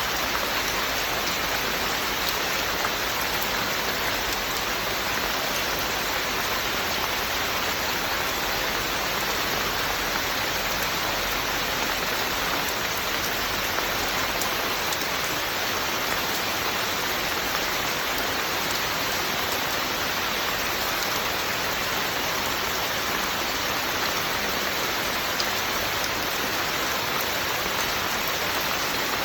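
Steady heavy rain, an even hiss of falling rain with faint individual drop ticks and no let-up.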